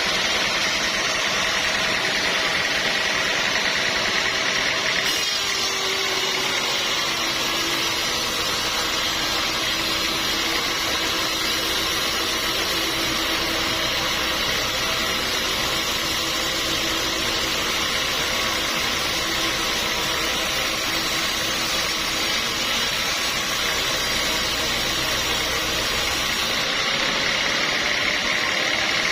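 Sawmill machinery running steadily. About five seconds in, a deeper hum and a steady tone join the noise and hold until near the end.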